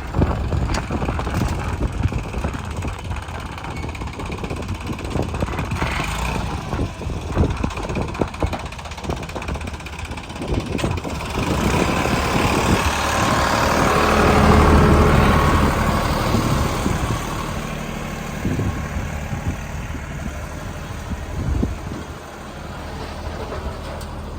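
Heavy diesel machinery engine running, with irregular clatter throughout. About halfway through it revs up under load for several seconds, then settles back.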